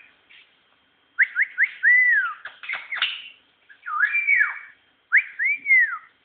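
Songbird singing clear whistled phrases of rising-and-falling notes, in four short bursts with brief pauses between them.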